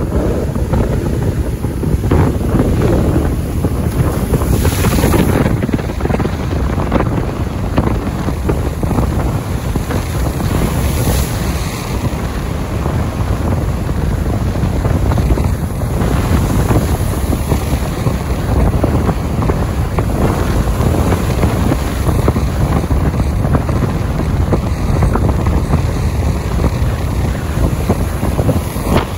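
Strong wind buffeting the microphone in a steady, loud rush, with rain. Brief hissing gusts come in about five and eleven seconds in.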